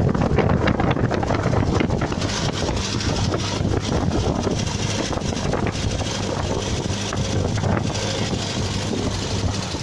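1978 Triumph Spitfire 1500's four-cylinder engine running steadily at idle after a cold start.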